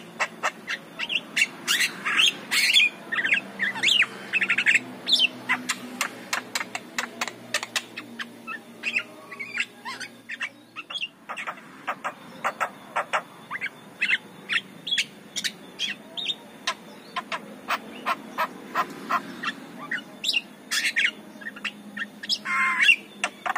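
Javan myna singing a rapid, chattering song of sharp clicks mixed with short whistled and harsh call notes, with a faint steady hum underneath.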